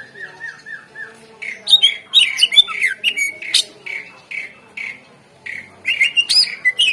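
Greater green leafbird (cucak ijo) singing: a short run of about five repeated slurred notes, then a loud, rapid string of varied whistled phrases, pausing briefly about four and a half seconds in before it starts again.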